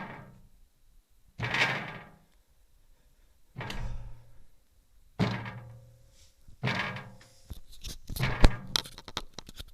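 Heavy knocks against a window about every second and a half, each dying away over half a second, then a quicker run of sharp taps and clicks near the end.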